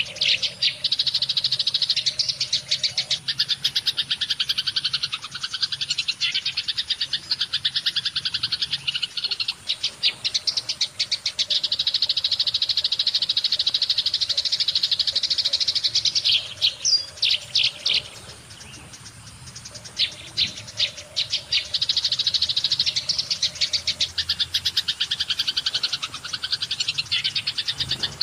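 A flock of Eurasian tree sparrows chirping continuously in fast, dense chatter, with a brief lull about two-thirds of the way through.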